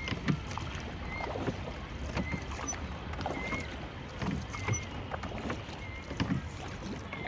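Small boat moving on a lake: a short squeak comes about once a second, with low knocks and a steady wash of water and wind noise.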